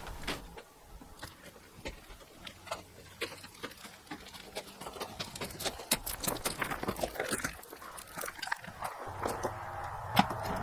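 Scattered light clicks, taps and scuffs of a Suzuki motorcycle being wheeled out by hand, with no engine running.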